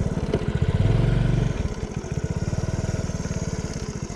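Honda C90's small single-cylinder four-stroke engine running at low revs in steady, evenly spaced pulses, picking up briefly about a second in and then settling back.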